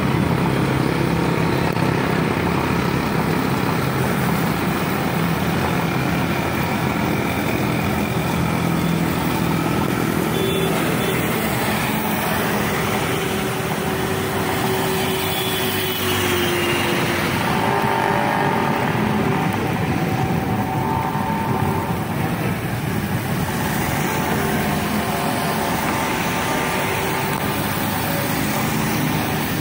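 Steady road traffic noise: vehicles running and passing, with a faint drawn-out tone in the middle.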